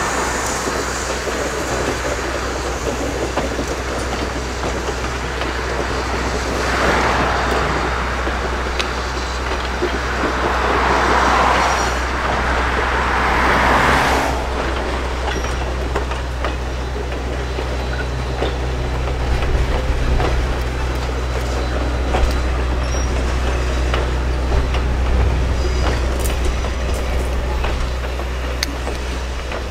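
Passenger train rolling on the rails: a steady low rumble with scattered clicks from the wheels, and three swells of rushing noise in the first half.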